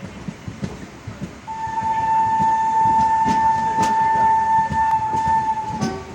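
Moving passenger train running with a low rumble and scattered wheel clicks over rail joints, then about a second and a half in a long, steady horn blast that holds one pitch for about four seconds before stopping near the end.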